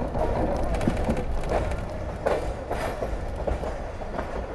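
Passenger train rolling into a station: a steady rumble with a few sharp clanks from the wheels on the rails.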